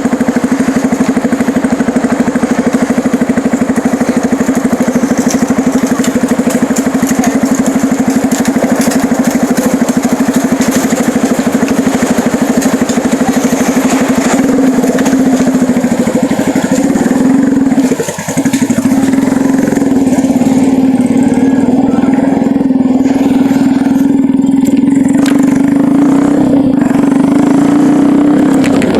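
A vehicle's engine running steadily while under way, with a loud, even hum. About eighteen seconds in it briefly drops, then carries on at a slightly higher pitch.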